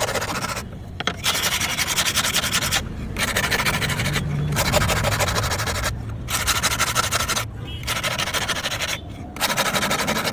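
Repeated abrasive rubbing strokes, a scratchy hiss broken by short pauses about every second or two.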